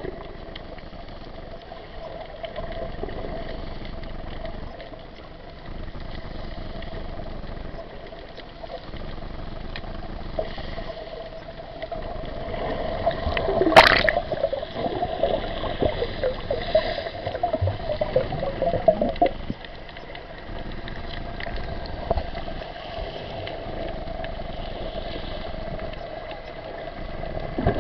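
Water sloshing and gurgling, with a faint steady hum underneath and a single sharp knock about halfway through.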